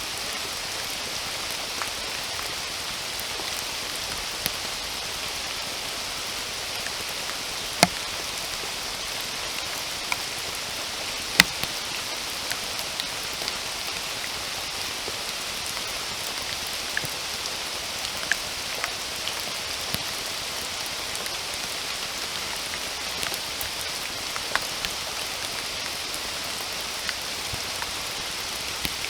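Steady rain falling, a dense even hiss, with scattered louder drops striking close by as sharp ticks; two of them, near the middle, stand out.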